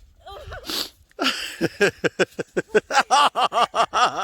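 A person laughing hard in a fast run of short "ha"s, after a brief sputtering gasp near the start.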